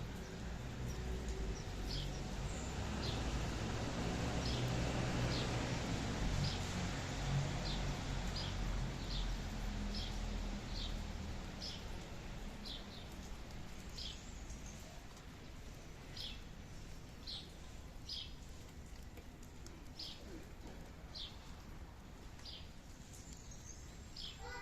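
A small bird repeating a short, high chirp roughly once a second, over a steady background hiss and low rumble of rain and wind.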